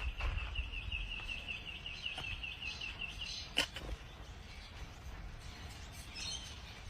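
A bird trilling: one high, rapid warbling trill held at a steady pitch for about three and a half seconds, followed by a single sharp click.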